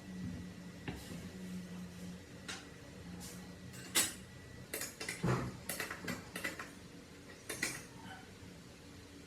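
Small metal parts and hand tools clinking and knocking against each other and the workbench: irregular light clinks, the sharpest about four seconds in and a quick cluster of them a little later.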